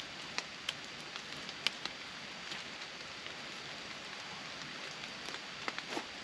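Steady rain falling, a continuous patter with scattered louder drops landing as sharp ticks.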